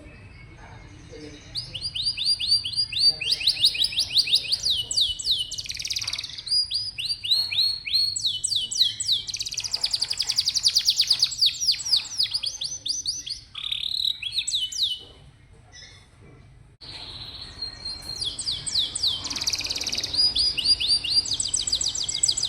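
Domestic canary singing: a long song of fast, high-pitched repeated trills, phrase after phrase, with a short break about two-thirds of the way through.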